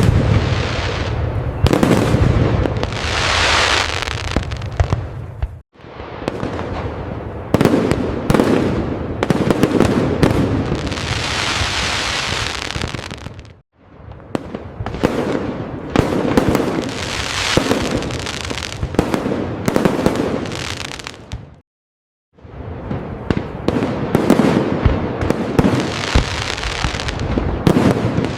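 Fireworks display: dense, overlapping booms and crackling aerial bursts, in stretches of about eight seconds that break off into a sudden brief silence three times.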